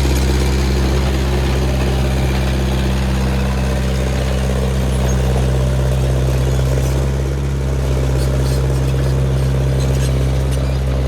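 Heavy engine running steadily at one even pitch, with light ticks and rattles over it in the second half.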